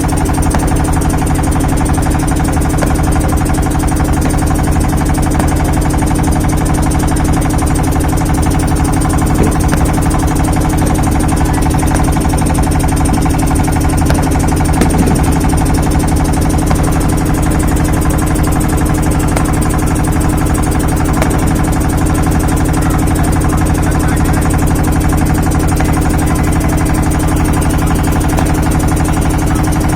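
Loud, steady mechanical drone, like an engine or generator idling, with an unchanging low hum.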